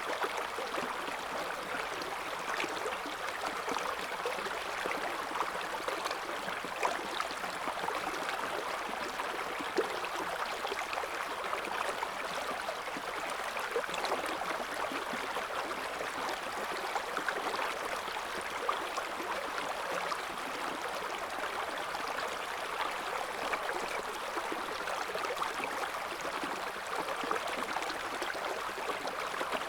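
Shallow river current running steadily over stones, a constant babble and splash with small trickles and bubbles popping through it.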